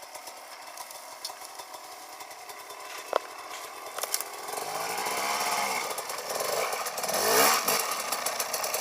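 Off-road motorcycle engine: faint at first, then from about halfway a revving engine note rising and falling in pitch as the bike comes down the slope, growing louder near the end. A sharp click near the middle.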